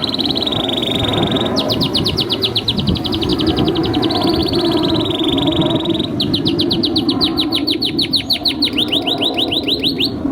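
Male canary singing a long 'gacor' song: a short buzzy held note, then two long rolls of rapidly repeated notes, about ten a second, the second roll slowing toward the end, over a steady low background hum.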